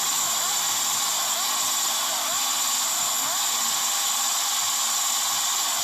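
Yamaha RX two-stroke motorcycle engine running at high revs through a loud aftermarket under-belly exhaust, with short rising rev sweeps every half second or so.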